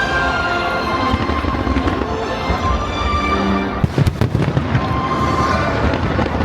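Aerial fireworks bursting and crackling over show music, with a cluster of sharp bangs about four seconds in.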